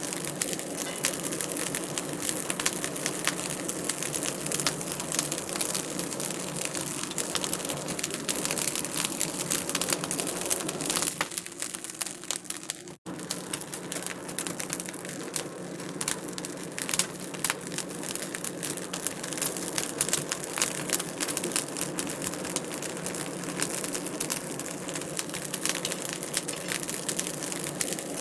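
Wood fire crackling in a fireplace: a dense, steady run of small pops and snaps over a soft hiss. The sound cuts out for an instant about halfway through, then carries on as before.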